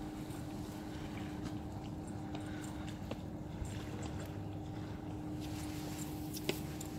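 Steady seaside wind noise with a faint steady hum underneath, and a single sharp click about six and a half seconds in.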